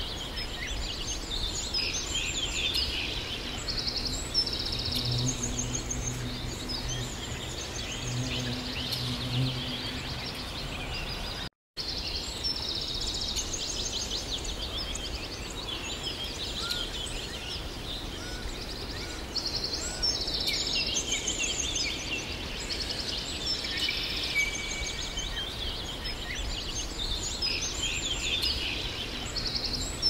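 Songbirds chirping and trilling, several calls overlapping, over a steady background hiss of outdoor ambience, with a brief break in the sound about twelve seconds in.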